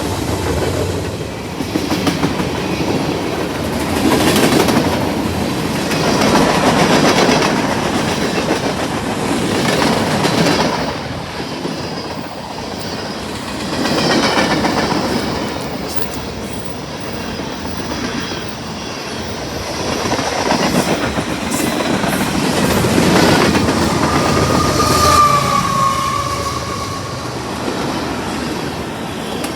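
CSX freight train rolling past, its wheels clacking over the rail joints in swells as the cars go by, with a brief high squeal near the end.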